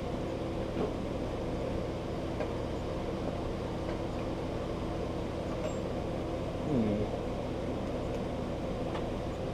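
Steady low machine hum with a few faint clicks and knocks, and a short falling squeak or creak about seven seconds in.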